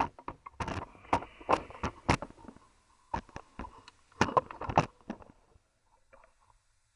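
A string of irregular sharp clicks and knocks of hand tools on metal as the engine's breather vent pipe fitting is tightened, stopping about five seconds in.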